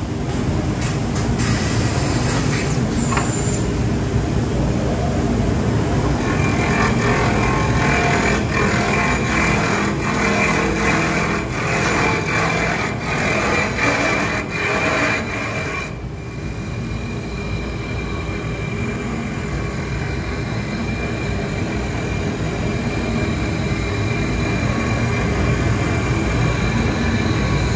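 WOOX 2X2 automatic-feed CNC wood lathe running, a steady mechanical drone. From about six seconds in, a high whine and rapid ticking come in for about ten seconds, then the sound settles into a steadier, slightly quieter run.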